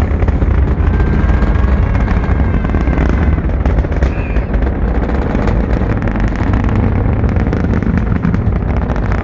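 Falcon 9 rocket's nine first-stage engines roaring during ascent, a deep continuous rumble with a dense, irregular crackle running through it.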